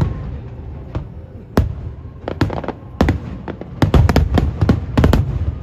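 Aerial fireworks shells bursting in quick succession: sharp booms and cracks, a few spaced apart at first, then a dense rapid run of bangs in the second half.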